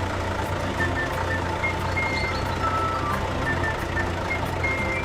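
Cartoon truck sound effect: a steady low engine hum with short high reversing beeps.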